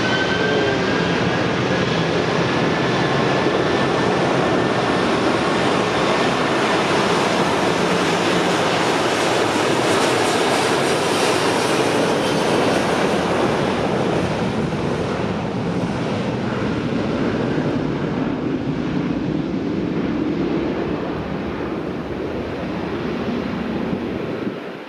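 Boeing 757-300's twin jet engines at takeoff power: a loud, steady rushing roar with a faint high whine in the first seconds, slowly fading over the second half.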